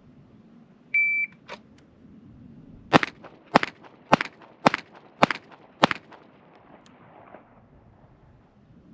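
A shot timer beeps once, and about two seconds later a Springfield Armory Prodigy 9mm pistol fires six rapid shots about half a second apart: a Bill Drill from the draw.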